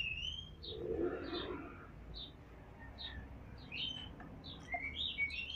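Small birds chirping: a run of short high chirps, about two a second, mixed with a few rising whistled notes that grow busier near the end. A brief soft rustle about a second in.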